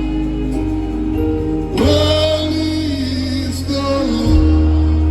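Live gospel worship music: a band holding sustained chords over changing bass notes, with a singer's long held note coming in about two seconds in.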